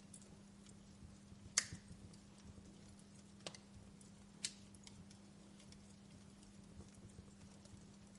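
Wood campfire crackling faintly, with sparse sharp pops among small ticks; the loudest pop comes about a second and a half in, and two more come at about three and a half and four and a half seconds. A faint steady low hum lies underneath.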